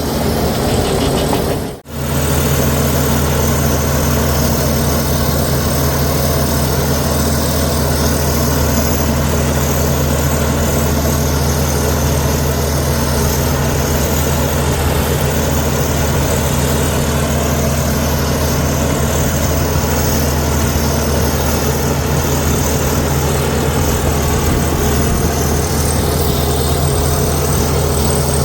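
Heavy diesel engine of a Komatsu D61EX bulldozer running steadily with a constant low drone. The sound drops out for a split second about two seconds in.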